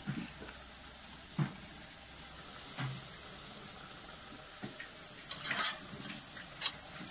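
Grated santol sizzling as it sautés in a stainless steel pan. A few short clicks and scrapes of a metal spatula against the pan come through the steady hiss.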